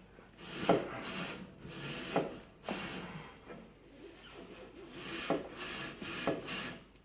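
Coil brush scrubbing a refrigerator's dusty condenser coils: a series of short rasping strokes of the bristles against the metal coils, with a brief pause midway.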